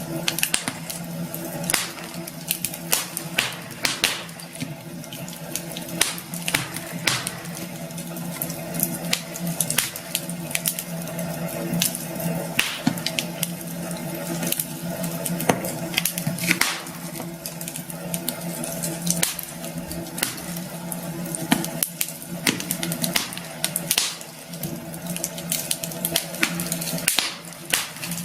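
Campfire burning, the wood crackling with frequent irregular sharp pops over a steady hiss, with a faint low steady hum underneath.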